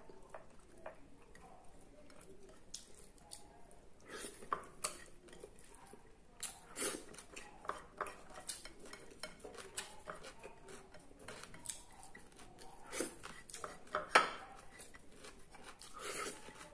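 Scattered light clinks and knocks of ceramic bowl and plates being handled while eating with the fingers, with one sharper knock near the end.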